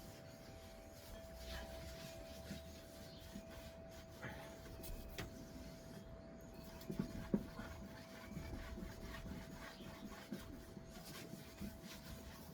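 Cloth wiping wood polish over a wooden tabletop: faint, irregular rubbing with a few light knocks, over a thin steady hum.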